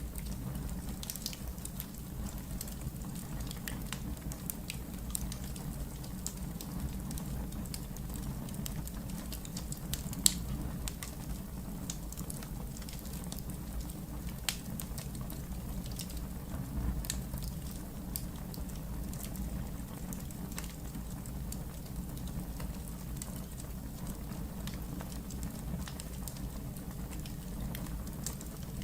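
Wood fire burning in a fireplace: a steady low rumble with scattered crackles and snaps, one loud pop about ten seconds in.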